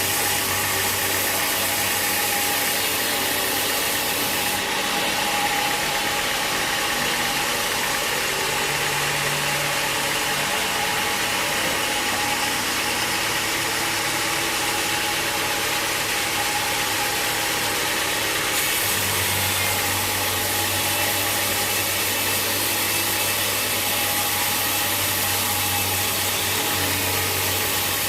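Sawmill machinery running steadily: a constant engine hum with a steady hiss over it.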